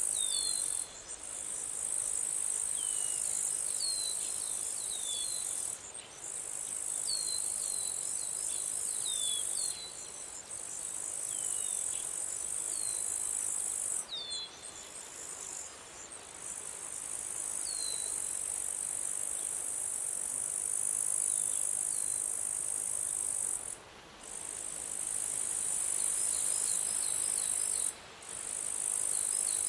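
Insect chorus, crickets or cicadas: a dense, high, steady trilling that breaks off briefly every few seconds, with short falling chirps scattered over it.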